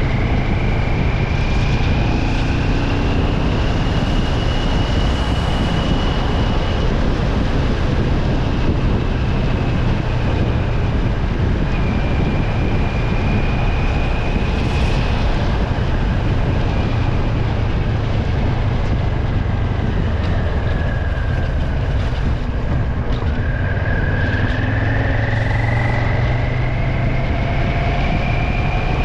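Vehicle travelling on a road: steady running noise with a thin high whine that slowly rises and falls.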